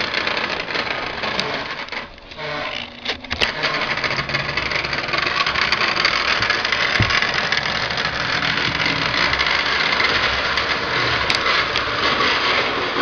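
Battery-powered toy train running along its track: a steady whirring, rattling motor sound that dips briefly a couple of seconds in.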